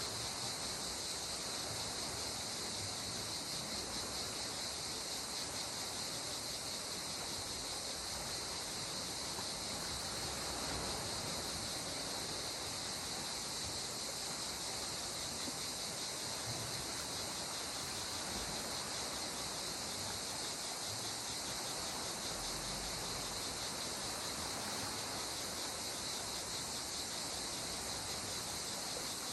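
A steady, high-pitched chorus of insects trilling without pause, over a soft, even wash of calm sea water.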